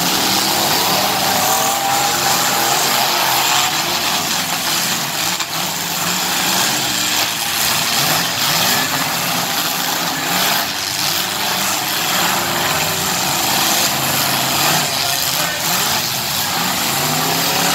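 Several full-size car, SUV and truck engines revving hard at once, their pitches rising and falling over one another, with a few sharp knocks.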